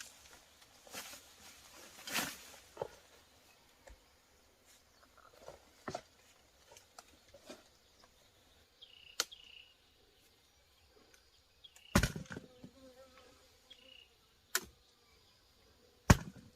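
Scattered sharp knocks and snaps, with two louder thuds near the end and a few faint short chirps in between.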